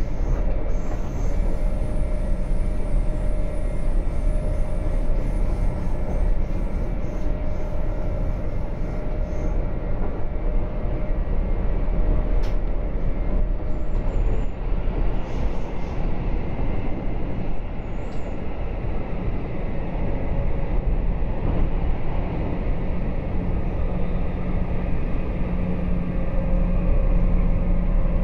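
Interior of a RABe 526 (Stadler FLIRT) electric multiple unit running along the line: a steady rumble of wheels on track, with a faint steady hum from the train's running gear.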